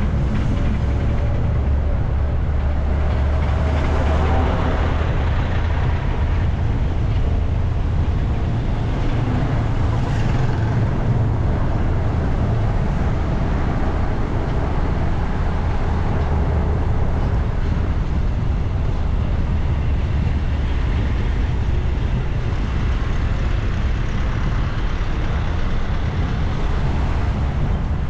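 A city micro bus engine running, with a steady low rumble and road noise while under way.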